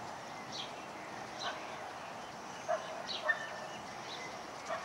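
Birds chirping in short, high, falling calls, about one a second, over a steady background hiss; two slightly louder calls come around three seconds in.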